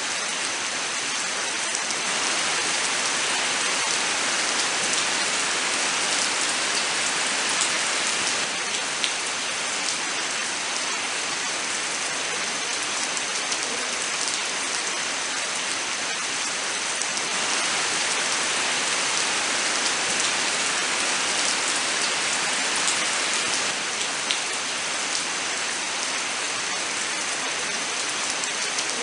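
Steady rain falling, a dense even hiss scattered with small drop patters that swells and eases gently in slow waves.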